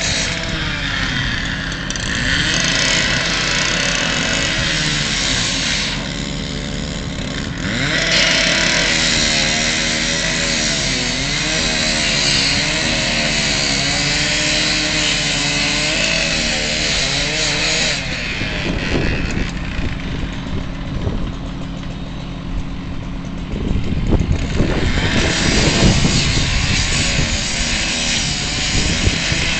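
Gas-powered saw revving and cutting open the metal hood of a burned truck. The engine note rises and falls, and a harsh, hissing cutting sound runs through long stretches. Around two-thirds of the way in the cutting stops and the saw runs rougher, then it bites in again near the end.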